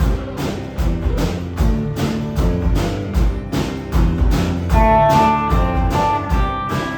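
A rock band playing live, drums, bass and guitars, with a steady drum beat driving an instrumental passage.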